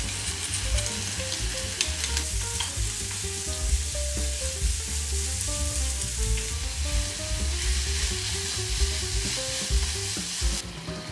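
Diced pork and garlic scapes stir-frying in a hot frying pan: a steady sizzle with a wooden spatula scraping and clicking against the pan. The sizzle drops off abruptly near the end.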